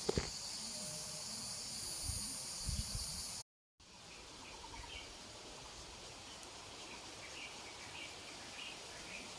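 Outdoor insect chorus: a steady high buzz with a few knocks from handling. After a sudden cut it turns quieter, with short high chirps repeating now and then.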